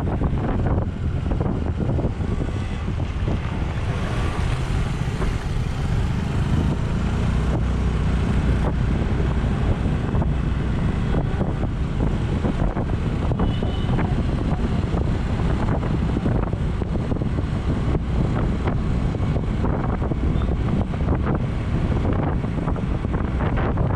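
Wind buffeting hard on an action camera's microphone while riding, a steady rough rumble with the vehicle's running underneath.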